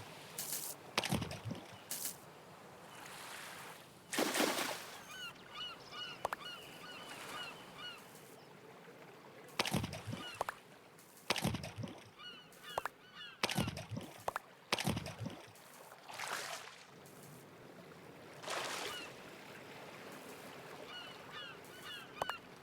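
Bird calls in runs of short chirps, with about a dozen short, loud bursts of noise scattered among them.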